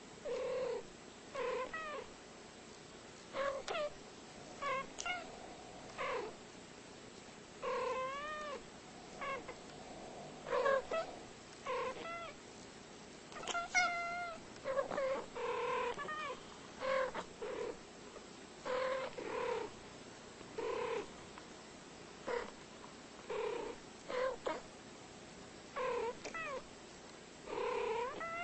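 Two cats trading short meows and chirping calls back and forth, a brief call about every second, many bending up and down in pitch.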